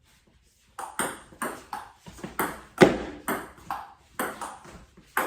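Table tennis rally: the celluloid-type ball clicking off paddles and the table about three times a second, starting about a second in.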